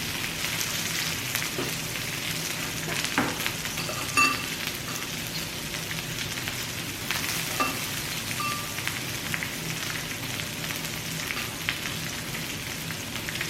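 Pork belly sizzling on a grill in a steady hiss with scattered crackles. A few light clinks of metal utensils sound around the middle.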